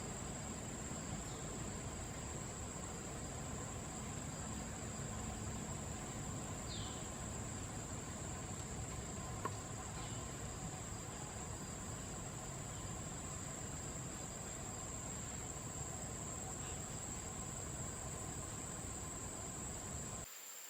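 Forest insects making a steady, high-pitched drone over a low rumble, with a few faint, short, falling chirps. The sound cuts off abruptly just before the end.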